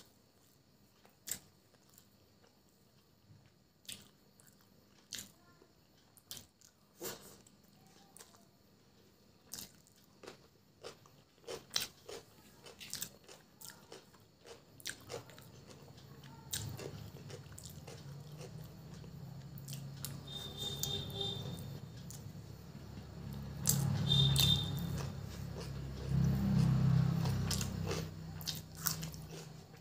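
Close-up mouth sounds of eating chicken biryani by hand: sharp wet clicks and smacks about once a second at first, then from about halfway on louder, denser chewing with crunching bites, including a bite of raw onion near the end.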